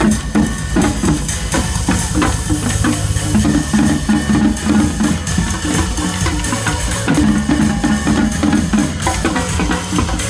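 Live percussion ensemble drumming a driving, continuous rhythm, with bass drum and snare strikes.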